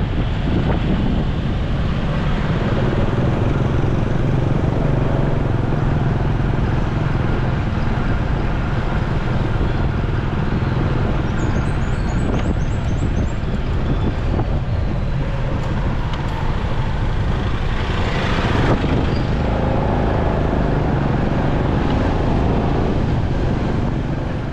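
Motorcycle riding in city traffic: steady engine and road noise, with a brief louder burst of noise about three-quarters of the way through.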